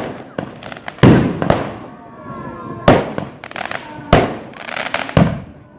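Fireworks going off: five sharp bangs roughly a second apart, each dying away in a trailing echo.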